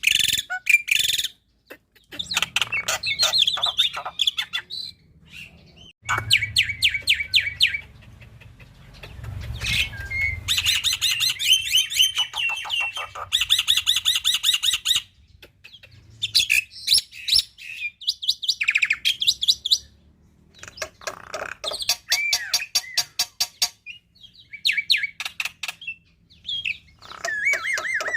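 Black-winged myna (jalak putih) singing a loud, varied song: rapid trains of repeated chattering notes and whistled glides in phrases a second or few long, separated by short pauses.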